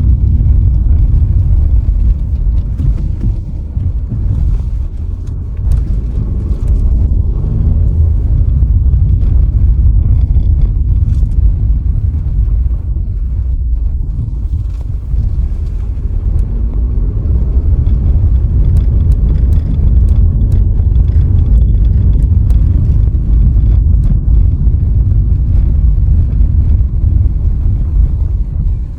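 A car driving along: a loud, steady low rumble of road and engine noise, with a faint engine note that wavers in pitch and occasional small knocks.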